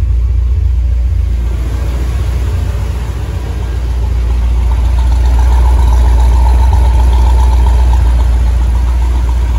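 1976 Corvette Stingray's 350 small-block V8 idling steadily on its freshly reassembled Quadrajet carburetor, running smoothly. It is heard from inside the cabin at first, then louder and fuller from about halfway as it is heard from outside the car.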